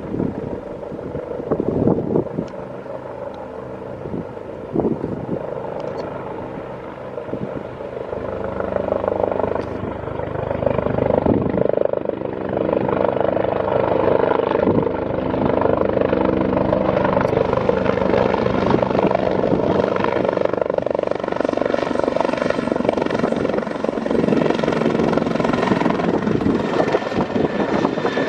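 Helicopter rotor and turbine running steadily, growing louder about ten seconds in and staying loud.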